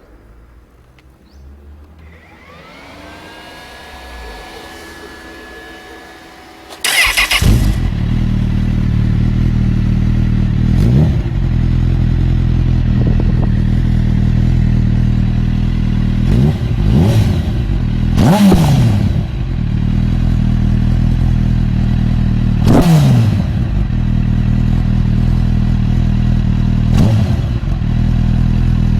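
Honda CB1000 inline-four with a Devil aftermarket exhaust being started. The starter whirs with a rising pitch for about five seconds, the engine catches about seven seconds in and settles into a loud idle, then the throttle is blipped every few seconds, each rev dropping quickly back to idle.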